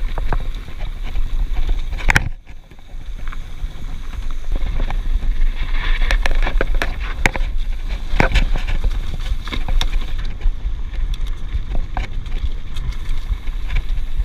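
Mountain bike riding over a rough trail: wind buffeting the microphone as a steady low rumble, with the bike's rattles and knocks over the ground throughout and a sharp clack about two seconds in.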